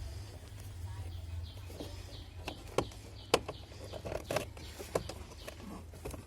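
Plastic clicks and knocks, four sharp ones spread through the middle, as the Prius filter housing cover is fitted and pressed back into place.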